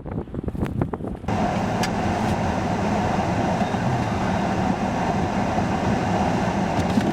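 Blizzard wind buffeting the microphone in uneven gusts. About a second in, it switches abruptly to a steady rushing noise of wind over stopped, running vehicles.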